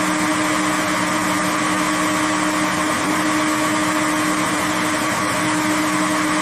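Processing-line machinery running steadily: an even mechanical hiss with a constant hum under it.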